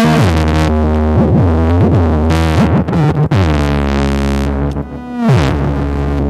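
DIY noise synth's square-wave oscillators buzzing through a lo-fi delay, their pitches sliding and swooping, with a sharp downward swoop a little after five seconds. A drum machine's beats play underneath.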